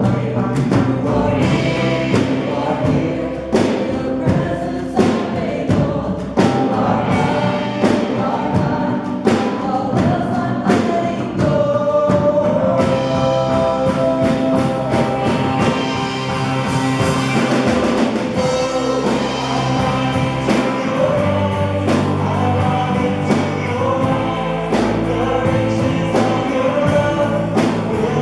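Live church worship band playing a praise song with voices singing together over a steady drum beat.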